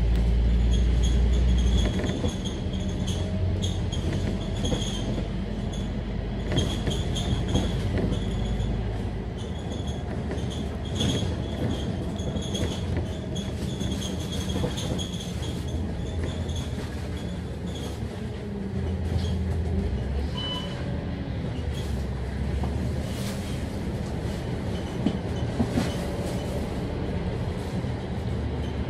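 Scania K310UD double-decker bus heard from inside while under way: steady engine and road rumble, heaviest for the first couple of seconds, with a high whine that comes and goes and body rattles and knocks.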